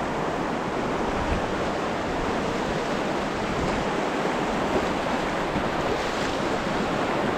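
Rushing whitewater of a river, a steady noise with no break, possibly mixed with wind on the microphone.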